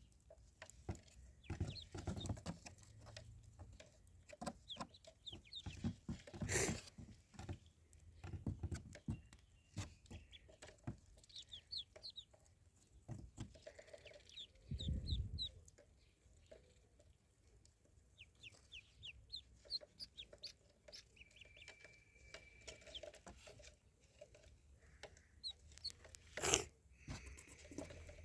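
Young ducklings peeping in clusters of short, high calls, with some clucking, scattered light taps and clicks, and two louder knocks, one early and one near the end.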